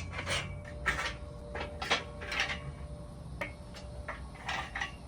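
Irregular light knocks and clicks, about a dozen scattered through the span, over a low steady rumble.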